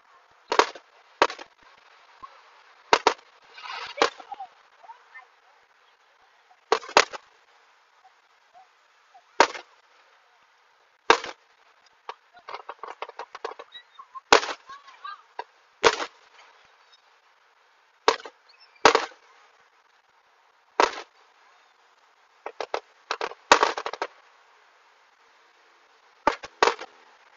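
Aerial firework shells bursting: sharp bangs every one to three seconds, some in quick pairs, with a stretch of rapid crackling about halfway through.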